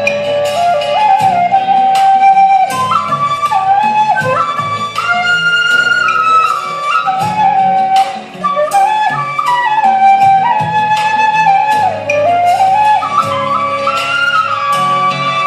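Vietnamese bamboo flute (sáo trúc) playing a slow folk-song melody, the notes stepping up and down with small slides between them. It plays over an accompaniment with a steady beat.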